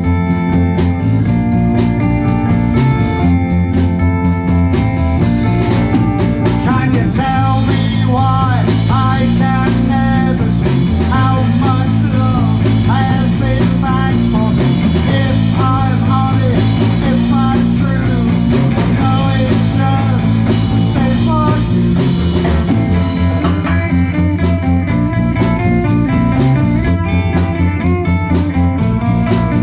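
A live rock band plays a blues-rock passage: bass and drums keep a steady groove while the electric guitar plays a lead line. For much of the middle of the passage the guitar lead has bent, sliding notes.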